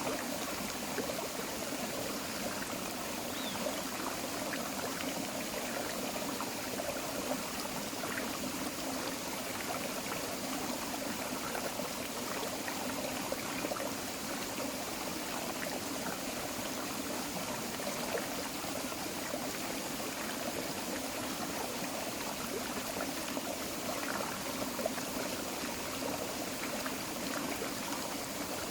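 Creek water flowing steadily over rocks, an even rushing and trickling with small splashes throughout.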